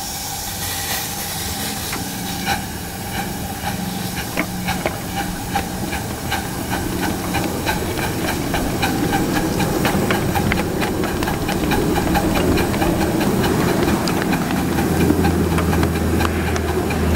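Steam hissing from a 7½-inch gauge live-steam K-4 model locomotive, with irregular sharp clicks and ticks over it, growing gradually louder. A low hum comes in near the end.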